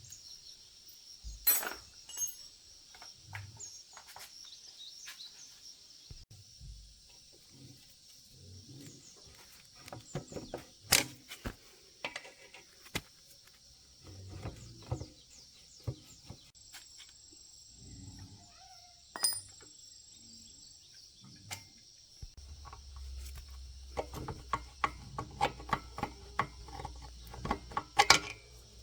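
Scattered clinks and knocks of small metal parts and tools being handled, coming thick and fast in the last few seconds, over a steady high drone of insects.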